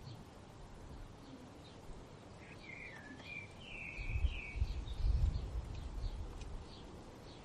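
A songbird sings one short warbling phrase of several stepped notes, with faint chirps from other birds around it. About four seconds in, a low rumble swells for a couple of seconds and is the loudest sound.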